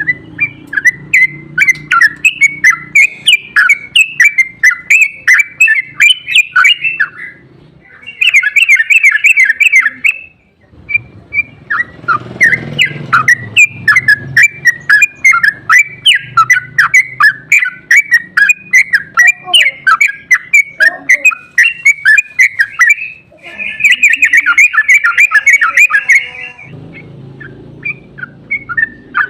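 Yellow-vented bulbul (trucukan) singing a long, rapid, near-continuous run of chattering notes, the 'ropel' style used as a lure. The notes come faster and louder in two bursts, about eight seconds in and again about twenty-four seconds in. A low background rumble runs underneath.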